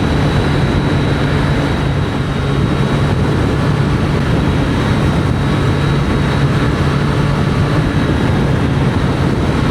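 Steady wind rush and engine hum of a Triumph Street Triple 765 RS inline-three cruising at about 70 mph, heard through a microphone inside the rider's helmet. The engine note holds a steady pitch, with no gear changes or revving.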